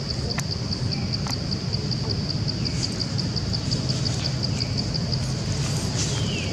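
Outdoor ambience: a high, even chirping that repeats about five times a second over a low steady rumble, with a few short squeaky calls that fall in pitch, the last one near the end.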